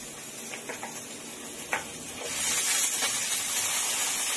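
Raw pork cubes dropping into hot oil in a frying pan: a few light clicks first, then about two seconds in the sizzle jumps loud and carries on as a steady hiss as the meat starts to fry.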